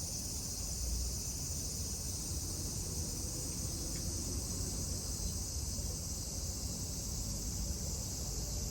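Steady, high-pitched drone of summer insects, unbroken throughout, with a low rumble underneath.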